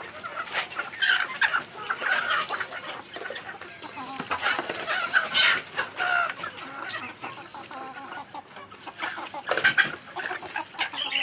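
Chickens clucking and calling, many short repeated clucks with louder bursts about a second in, around five seconds in, and near ten seconds.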